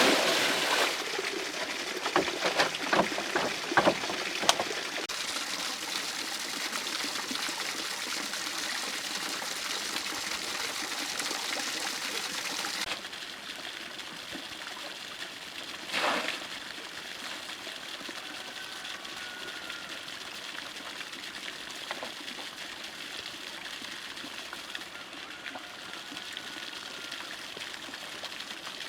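Water running and trickling steadily. There are several knocks in the first few seconds, the water sound drops lower about thirteen seconds in, and there is one louder sudden sound about sixteen seconds in.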